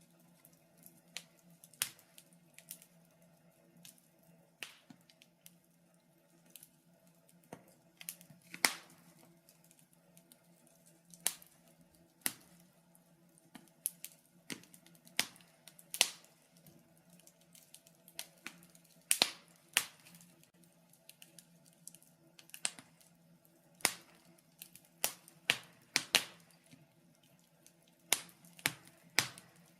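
Wood fire in a fireplace crackling: irregular sharp pops and snaps, some in quick clusters, over a faint steady low hum.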